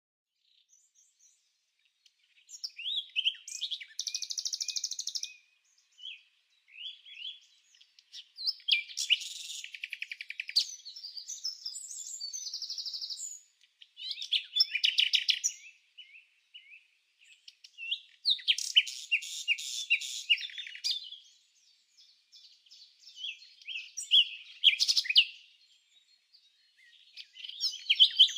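Bird calls: bursts of rapid high chirps, buzzy trills and quick sweeping notes, each burst lasting a second or two with short silent gaps between, starting about two and a half seconds in.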